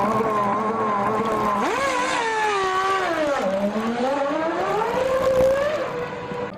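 Formula One car's 3.0-litre V10 engine running at a steady note, then revving sharply up about two seconds in, falling away, and climbing again before the note drops and fades near the end.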